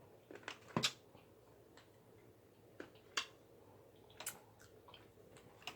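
Eating sounds: about six short, sharp clicks and taps, spread apart by quiet, the loudest near one second and three seconds in.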